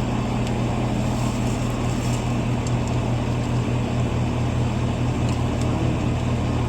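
Steady low hum of an outdoor air-conditioning condenser unit running, with a few faint light ticks.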